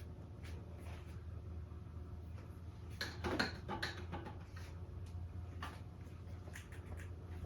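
Faint scratchy strokes and light taps of a paintbrush on a stretched canvas, a few brief ones clustered a few seconds in, over a steady low hum.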